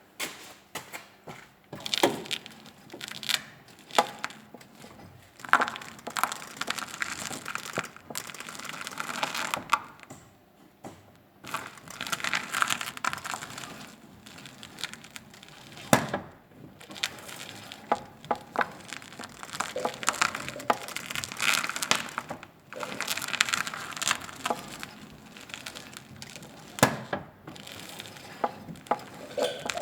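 Irregular sharp knocks and clicks with stretches of crackling, rubbing noise a few seconds long, from a VW Golf 4's steering where the power-steering tie-rod boot knocks.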